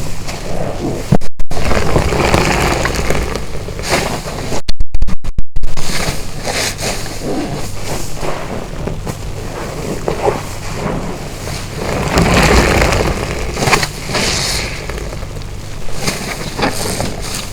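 A car wash sponge being squeezed and rinsed in water: wet squelching and sloshing in repeated swells, loudest in hard squeezes about a second and about five seconds in.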